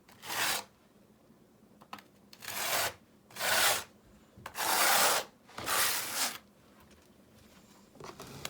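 Trowel scraping through gritty mortar in about six separate strokes, each about half a second long, with short pauses between.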